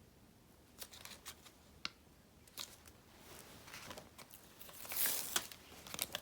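Paper and stickers being handled on a desk: scattered light taps and clicks, then a longer paper rustle about five seconds in, the loudest part, followed by a few more clicks.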